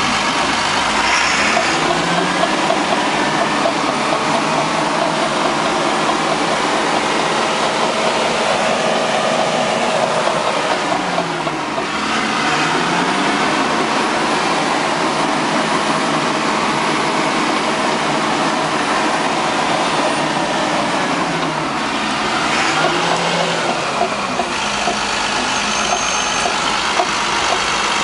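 Cat D6N LGP bulldozer working: its diesel engine runs steadily under the clatter of the machine. The engine note dips and climbs back twice.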